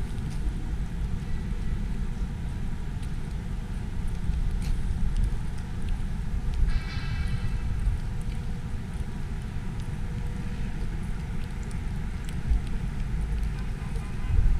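Wind buffeting the microphone over a steady low rumble of city traffic, with one short high-pitched sound about seven seconds in.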